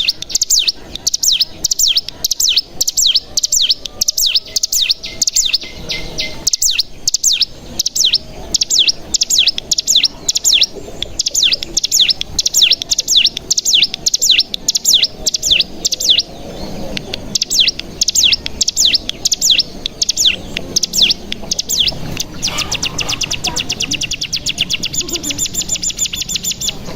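Ciblek gunung, a prinia, calling: a long run of sharp, high, downslurred chirps, a few per second, that speeds up near the end into a fast, continuous trill, the 'ngebren' song.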